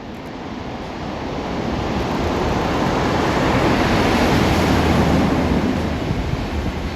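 Class 45 'Peak' diesel locomotive with its Sulzer engine passing through a cutting at the head of a train: a rushing noise that swells to its loudest about four to five seconds in and then eases, with a steady low engine drone at its height.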